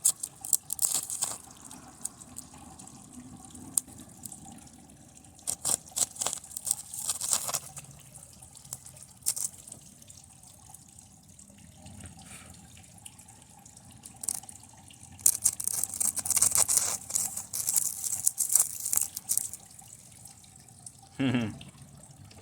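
A TV circuit board burning and arcing under high current from a lead-acid battery, crackling and sizzling in irregular bursts. A brief sound falling in pitch comes near the end.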